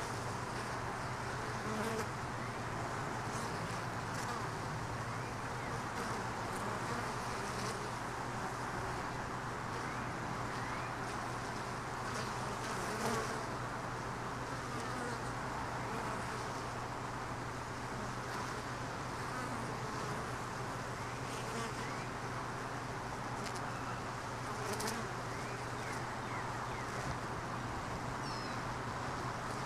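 Honey bees buzzing around an opened hive, a steady even hum, with a few faint sharp clicks and a brief bird chirp near the end.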